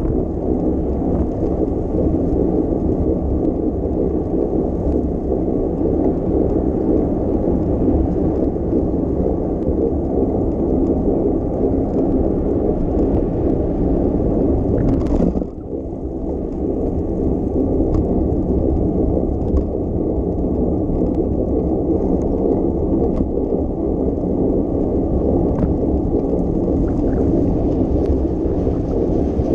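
Wind rumbling on the camera microphone during a bicycle ride, a steady low buffeting that briefly drops off about halfway through after a short knock.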